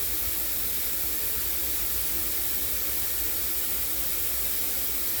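Shower spray running with a steady hiss of fine water.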